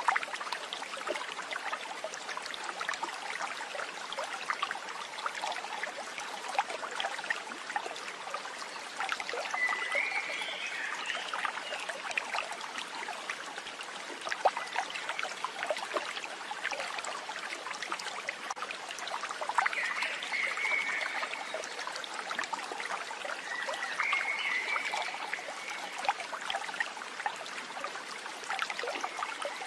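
Water trickling and babbling steadily, like a small stream, with a few short high chirps about a third of the way in and twice more later on.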